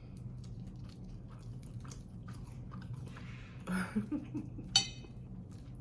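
Close-miked chewing and wet mouth clicks of someone eating, over a steady low hum. A short hummed vocal sound comes about four seconds in, followed by one brief, sharp, high-pitched mouth sound.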